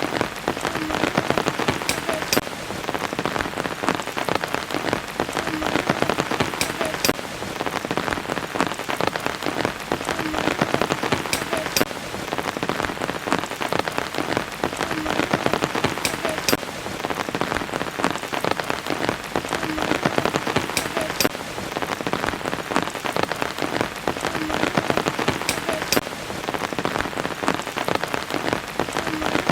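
Steady rain with sharp individual drop hits, the same stretch of sound repeating about every four and a half seconds, as a looped rain recording does.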